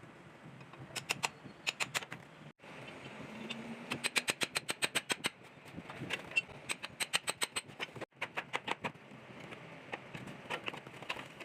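Rapid runs of ringing metal-on-metal hammer strikes, several a second, as a furnace's iron parts are knocked apart. The runs break off abruptly twice.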